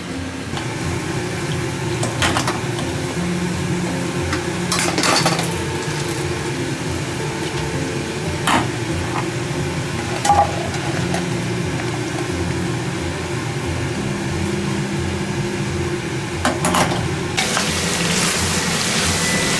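Food-truck cooking: metal utensils and pans clinking and knocking now and then over a steady low hum. About 17 seconds in, a loud hiss sets in, like food starting to sizzle.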